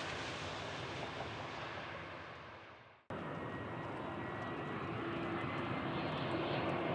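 Jet airliner engine noise that fades away to silence about three seconds in, then cuts straight to another airliner's engine noise with a faint steady whine, slowly getting louder.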